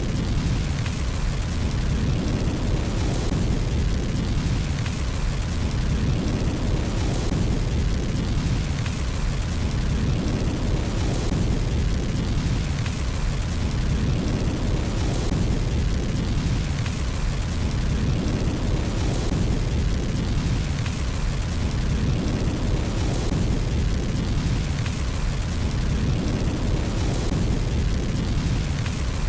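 Fire burning in a fireplace: a steady low rumble with crackle and hiss. The same swell of crackling comes back about every four seconds, as in a looped recording.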